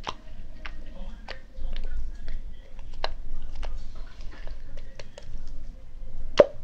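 Slime being handled and pressed by hand, giving irregular sharp clicks and pops about one or two a second, the loudest near the end, over a steady low hum.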